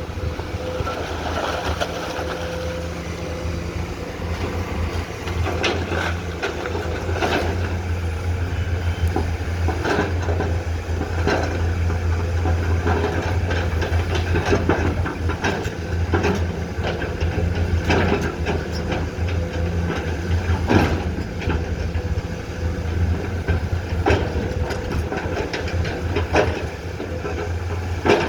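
Komatsu PC210-10M0 excavator's diesel engine running steadily under work, with irregular knocks and clatter scattered throughout.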